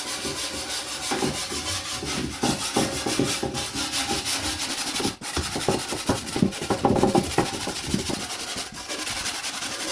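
Hand-held steel wire brush scrubbing surface rust off the metal bowl of a fire pit, in quick, irregular back-and-forth strokes, with a brief pause about halfway through.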